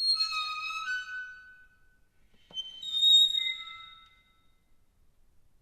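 Squeaky metal door hinge creaking twice with an echo. The first squeak comes at the start and lasts about a second and a half. The second follows a small click about two and a half seconds in and fades out by about four seconds.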